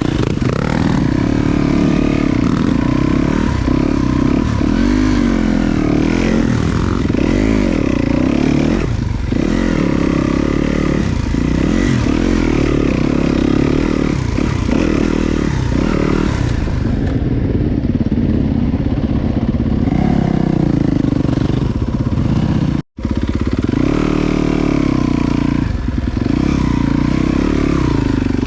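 Dirt bike engine revving up and down over and over as the bike is ridden along a trail, heard from a helmet camera.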